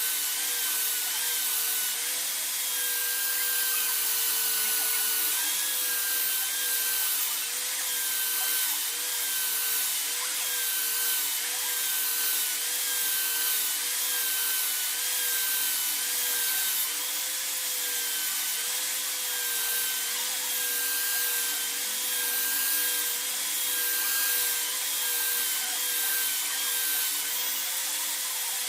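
Electric power tool running against the workpiece, its motor whine dipping in pitch again and again as it is loaded, over a steady rubbing hiss.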